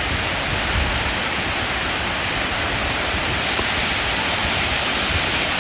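Steady rushing roar of falling water from a waterfall, an even hiss without pauses, with an uneven low rumble of wind on the microphone underneath.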